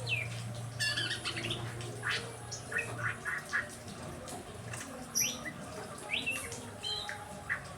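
Pet songbirds chirping and calling over one another, with short sharp chirps and quick rising whistles. A low steady hum runs under them for the first three seconds.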